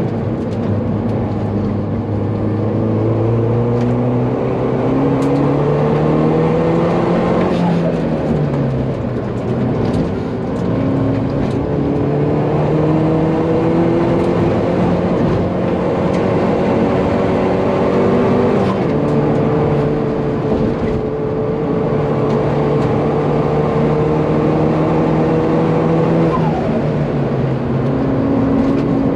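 Hyundai Veloster N 2.0-litre turbo four-cylinder, swapped into a 1991 Hyundai Excel, heard from inside the cabin while driven hard. The engine note climbs slowly in pitch under load and falls back about seven seconds in. It climbs again, then drops around nineteen seconds in and once more near the end.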